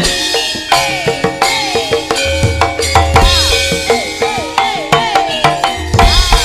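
Lively Javanese gamelan music driven by a hand drum played in quick strokes, several of which slide down in pitch, over ringing metallophone notes and a deep bass.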